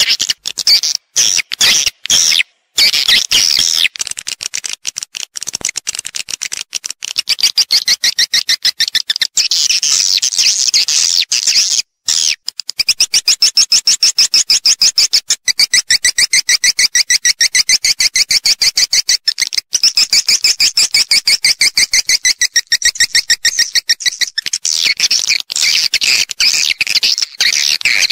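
Edible-nest swiftlets calling in a dense, rapid stream of high chirps and twitters, with brief breaks early on and near the middle. This is a swiftlet lure recording of call and roost sounds, played to draw swiftlets into a nesting house.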